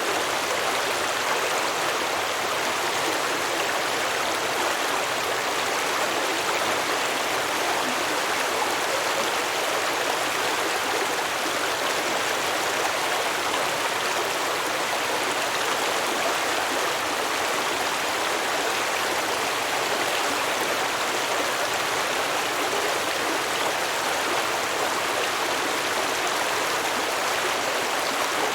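A small stream flowing and babbling over rocks, a steady rushing and burbling of water with no pauses or changes.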